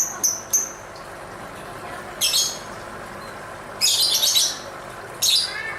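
Lovebird calling: a quick run of sharp, high chirps in the first half-second, then three short bursts of rapid, harsh chattering about two, four and five seconds in.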